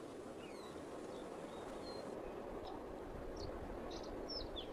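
Steady outdoor nature ambience, an even rushing background, with short high bird chirps scattered through it and several in quick succession near the end.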